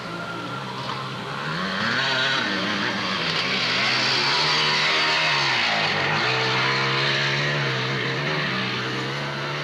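Motocross motorcycle engine revving up and down while the bike is stuck on a muddy climb and being pushed by hand; the revs sag about six seconds in, then pick up and hold steady.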